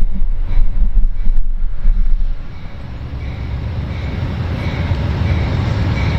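A train approaching on the line, its low rumble building steadily from about two and a half seconds in, with faint high ticks from the rails. Heavy low thumps in the first couple of seconds.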